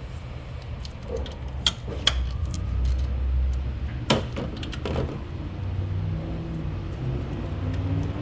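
A few sharp metallic clinks of hand tools being handled against metal, three louder ones in the first half, over a steady low rumble.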